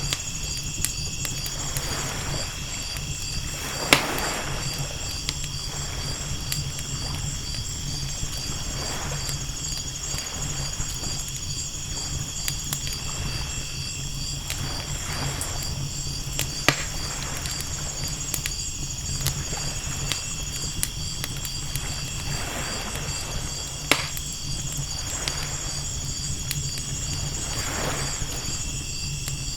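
Night ambience of ocean waves washing in and out, layered with a crackling campfire whose sharp pops stand out about 4, 17 and 24 seconds in. Night insects chirp steadily in a high, pulsing drone throughout.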